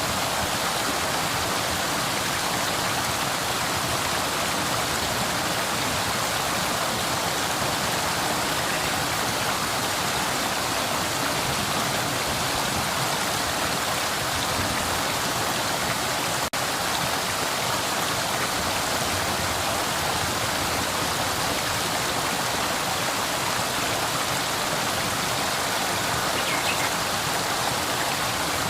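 Flowing river: a steady, continuous rush of running water. Near the middle there is a momentary dropout in the sound.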